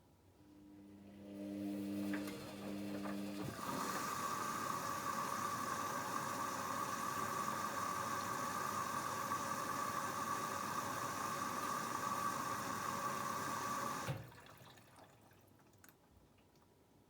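Front-loading washing machine taking in water: after a brief low hum, water rushes steadily in through the inlet valve for about ten seconds, then cuts off abruptly as the valve closes.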